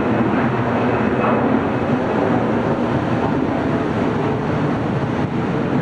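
Steady, loud outdoor rumble of airport and road traffic, with distant jet engine noise.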